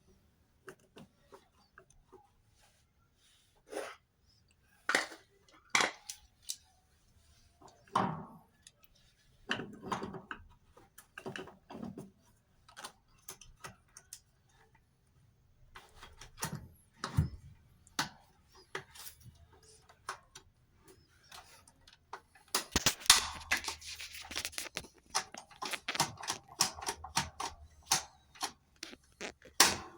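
Metal tools and washing-machine transmission parts clinking and knocking as they are handled, in scattered single knocks. A denser run of rapid clicking and rattling starts about three-quarters of the way in.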